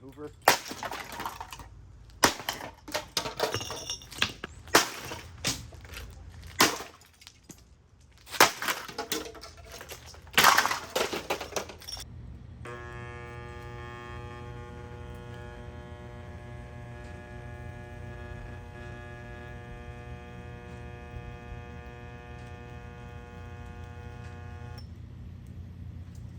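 Repeated heavy blows and cracking as a Hoover MaxLife Total Home Pet upright vacuum's plastic body is smashed, about a dozen impacts over roughly twelve seconds. Then comes a steady tone made of many pitches at once for about twelve seconds, which cuts off abruptly.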